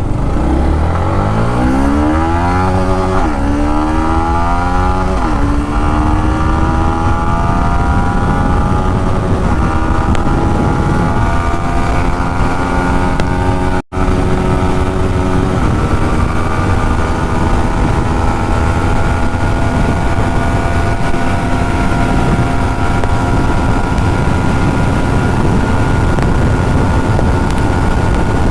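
Yamaha MT-15's 155 cc single-cylinder engine under full throttle, accelerating through the gears. The revs climb fast and fall back at shifts about three and five seconds in, then rise more slowly in the higher gears and level off, holding steady near the bike's top speed. The sound cuts out for a moment about halfway through.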